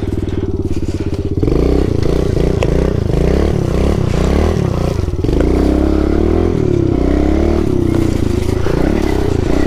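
Pit bike's small single-cylinder four-stroke engine running steadily at low revs for about a second and a half, then revved up and down again and again as the bike is ridden.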